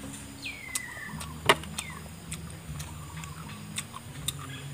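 Crisp, irregular crunches and clicks of raw banana blossom being bitten and chewed close to the microphone, with one loud crunch about a second and a half in. A short falling squeak sounds near the start.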